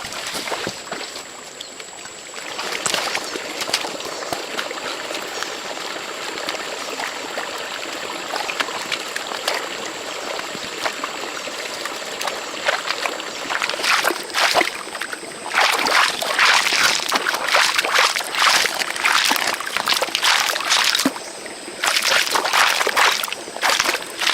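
Water trickling and splashing, steady at first, then louder and more broken about two-thirds of the way through, with a brief lull near the end. A faint steady high tone runs underneath.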